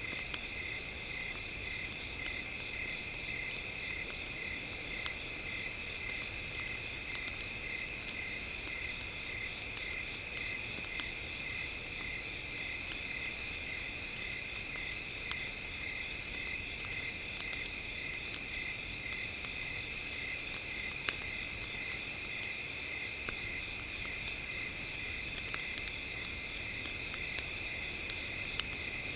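Crickets chirping in a steady chorus of fast, pulsing high trills, with scattered faint crackles from a campfire.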